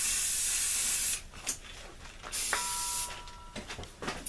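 Aerosol can of Rust-Oleum high performance enamel spray paint spraying: a long hiss that stops about a second in, then a second, shorter burst a little past two seconds in.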